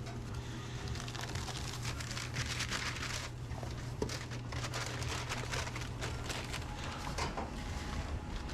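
Restaurant kitchen noise: a steady low hum under a continuous crackling, sizzling hiss, with scattered small clicks and clatters.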